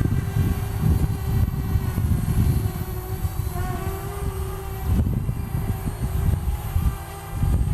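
Parrot Bebop quadcopter's four brushless motors and propellers whining in flight, the pitch shifting slightly partway through as it manoeuvres. Heavy gusty wind rumbles on the microphone under it.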